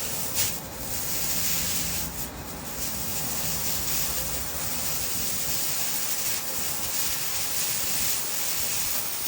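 Nitrogen rushing out of a refrigerant line in a steady, loud hiss as an evaporator coil is flushed, blowing out compressor oil that has built up in the system.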